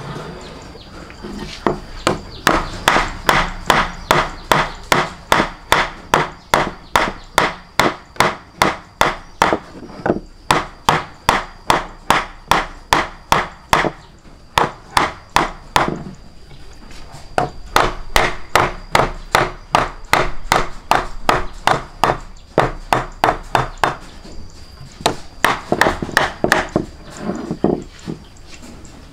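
Rapid, regular knocking strikes, about three a second, in runs of several seconds with short breaks between them.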